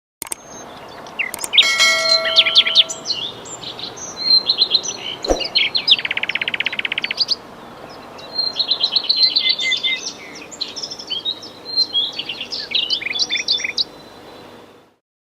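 Birds chirping: many short, high calls, with a fast trill about six seconds in, over a faint steady hiss. A brief ringing tone sounds near the start and a single sharp click about five seconds in, and the recording cuts off just before the end.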